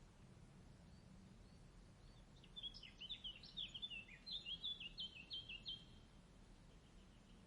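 A small songbird singing a quick twittering phrase of high chirps for about three seconds, starting a couple of seconds in, over faint low background noise.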